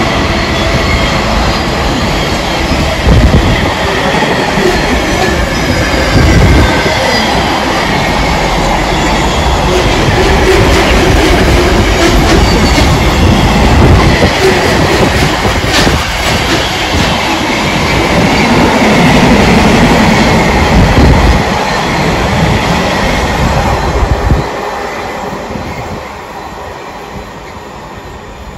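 A train running past on the rails, loud and rumbling with occasional knocks, then fading away over the last few seconds.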